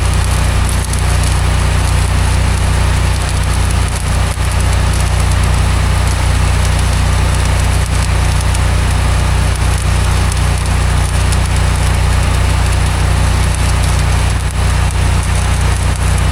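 Stick (arc) welding on a steel gate: the electrode's arc crackling and sizzling steadily. Under it is the steady low drone of an engine running.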